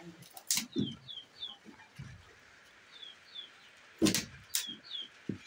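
A small bird chirping in short falling notes, two or three at a time, over a few sharp wooden knocks as sticks of firewood are pushed into a mud cooking stove; the loudest knock comes about four seconds in.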